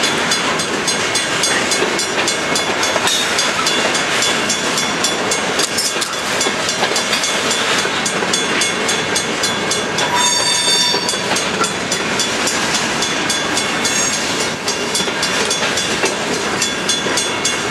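A freight train's covered hoppers and boxcars rolling by, with a steady rumble of steel wheels on rail and rapid, regular clicking. A brief high squeal comes about ten seconds in.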